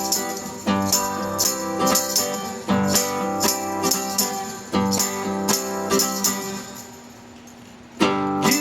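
Instrumental break of a live song: strummed acoustic guitar chords with a tambourine jingling on the beat. Near the end the playing fades down for about a second, then the full band comes back in sharply.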